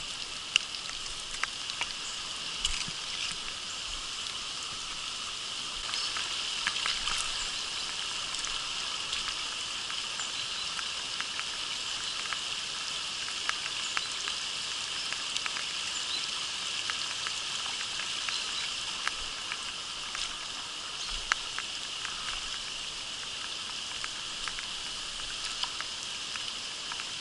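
Steady rain: a continuous crackling patter with scattered sharper ticks of drops striking close by, as on the camera housing.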